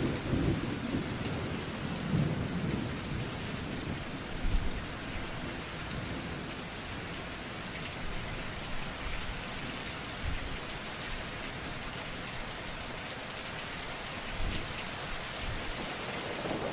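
Steady rain falling, with thunder rumbling in the first few seconds and again near the end.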